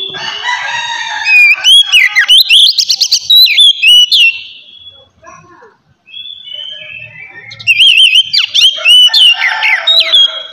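Oriental magpie-robin (kacer) singing in two loud bursts of varied song, with whistled rising and falling glides and rapid trills. The first burst runs from the start to about four seconds in and the second starts about seven and a half seconds in, with a short lull between.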